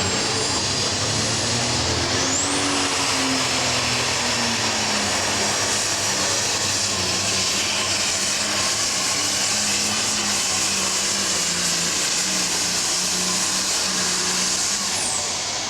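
A John Deere 8100 diesel super stock tractor pulling under full power, its engine running hard and steady. A high turbocharger whistle rises about two seconds in and drops away just before the end as the run finishes.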